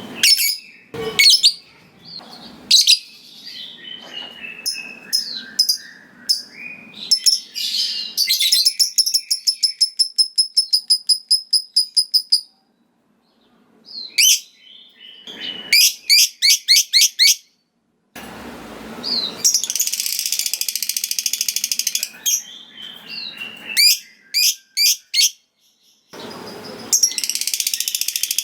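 Lovebird (Agapornis) in full song: sharp, high chirps and a run of quick repeated notes at about five a second. It then breaks twice into the long, dense, rattling trill that keepers call 'ngekek panjang', a few seconds after the middle and again at the end.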